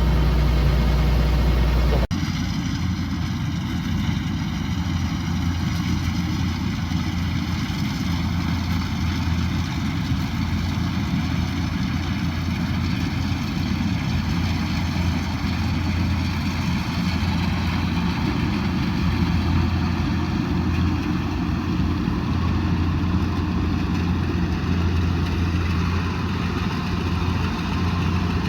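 Kubota DC108X combine harvester running steadily, its engine and harvesting machinery going with several held tones. The sound changes abruptly about two seconds in, to a lighter, steady running mix.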